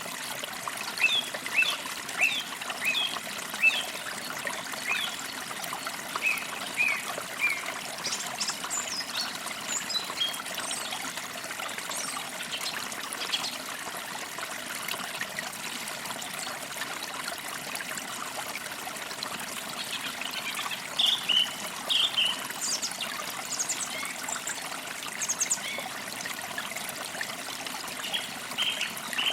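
A forest creek trickling and babbling steadily, with songbirds chirping over it: a run of repeated short notes in the first several seconds, scattered high calls after, and another burst of chirps about two-thirds of the way in.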